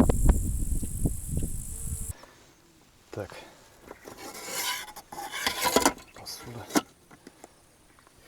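Crickets chirring steadily over a low rumble, cut off abruptly about two seconds in. Then a few seconds of scraping and rustling handling noises, which stop near the end.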